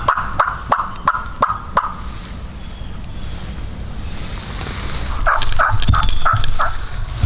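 Turkey yelping: a run of evenly spaced yelps, about three a second, fading out about two seconds in, then a second series of about six yelps near the end.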